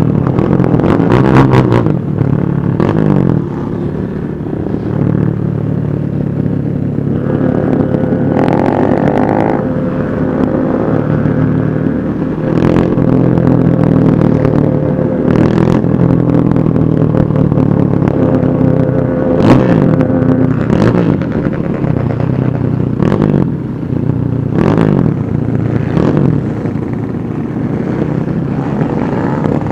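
Many motorcycle engines running together at low speed, with riders repeatedly blipping the throttle in short revs over a steady engine drone.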